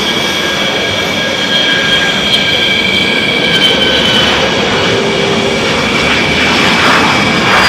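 Dassault Falcon 6X's twin Pratt & Whitney PW812D turbofans running loud: a steady jet roar with high turbine whine tones over it.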